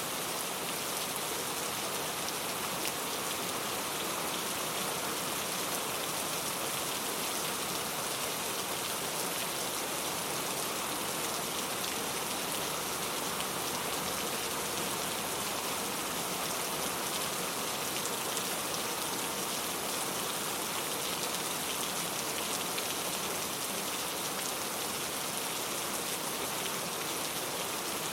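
Steady rain falling on a surface, an even hiss of many drops with no thunder or other events.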